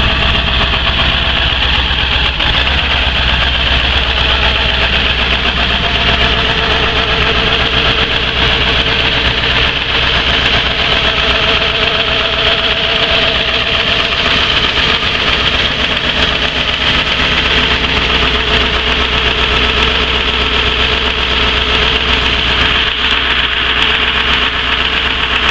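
1995 Ford F-250's 7.3 Power Stroke turbo-diesel V8 idling steadily after a cold start in sub-freezing temperatures.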